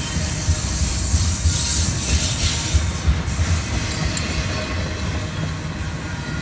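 Double-stack intermodal well cars rolling past close by: a steady low rumble of steel wheels on rail, with irregular knocks and a high hiss that are loudest in the first half.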